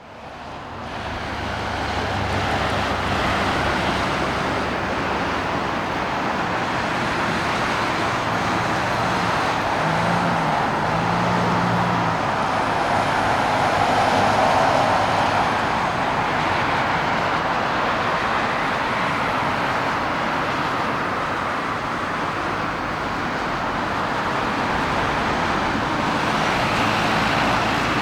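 Steady roar of distant engines, fading in over the first couple of seconds and swelling a little in the middle, with a faint low hum in places.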